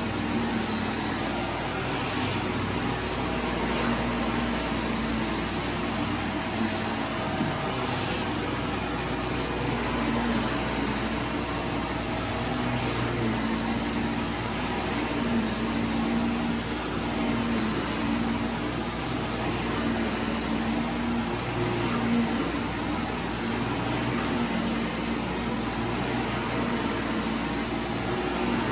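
Vacuum cleaner running steadily with a constant hum, with a few brief higher hissing flares.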